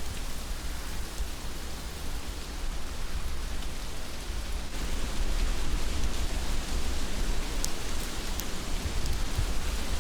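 Heavy rain falling steadily as a dense, even hiss over a low rumble, a little louder from about halfway through, with a few sharp drop ticks near the end.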